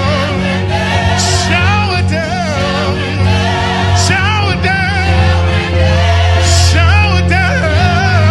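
Gospel worship music: voices singing with wavering, sliding runs over a sustained bass and held chords, with a bright crash about every two and a half seconds.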